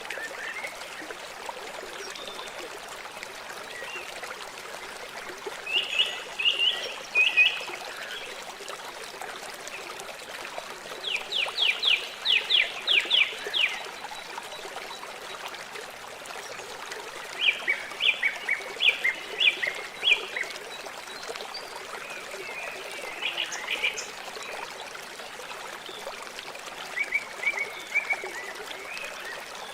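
River water flowing steadily, with a bird singing five short phrases of quick repeated notes spaced several seconds apart.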